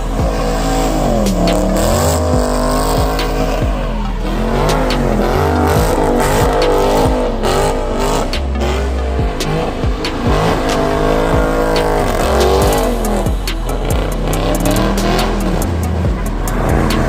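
A Hemi V8 engine revving up and down again and again with tire squeal as a car slides, mixed with hip-hop music that has a deep bass beat.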